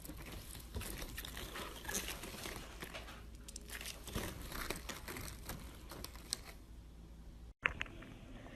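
Hands squishing and poking slime, making a dense run of small crackling clicks and pops. The sound cuts out for an instant about seven and a half seconds in, then the clicking resumes.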